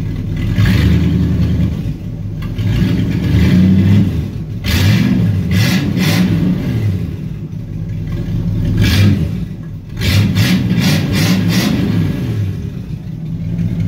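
1964 Chevrolet Impala's 283 small-block V8 running with no muffler through an open single exhaust, revved up and dropped back several times with sharp crackles at the peaks. It runs rough; the owner says it is badly out of tune and needs a tune-up.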